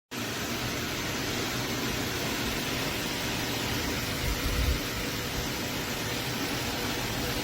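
Mars Hydro 6-inch clip-on grow tent fan running, a steady rush of moving air, with a brief low buffet of air about four and a half seconds in.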